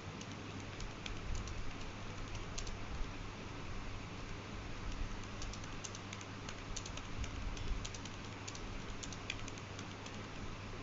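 Computer keyboard keys clicking in irregular runs, over a steady low hum.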